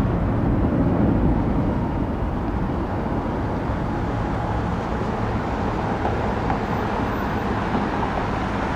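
Steady low rumble of distant airliner jet engines and airport ambience, swelling slightly about a second in.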